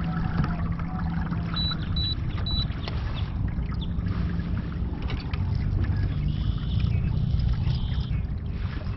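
Kayak under way on the water: a steady low rumble of water and wind, with three short, evenly spaced high beeps about two seconds in and a brief high buzz near the end.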